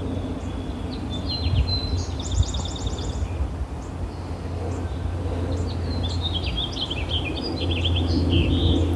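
Small birds chirping, with a quick trill about two seconds in and more chirping near the end, over a steady low outdoor rumble.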